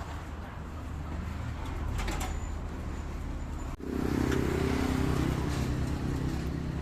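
Motor vehicle engine running with a steady low rumble amid street noise. The sound drops out briefly about four seconds in, then comes back louder and fuller.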